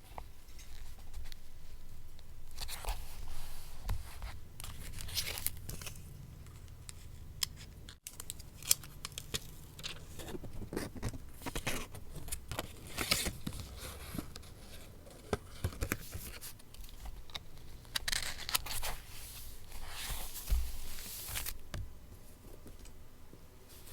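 Paper being torn and snipped with scissors in irregular strokes.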